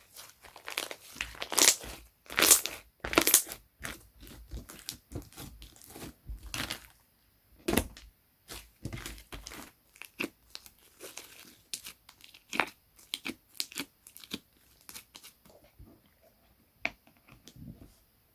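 Slime being squished, stretched and pressed by hand, giving a rapid run of crackling clicks and pops. The loudest pops come in the first few seconds, and the clicks grow sparser and softer toward the end.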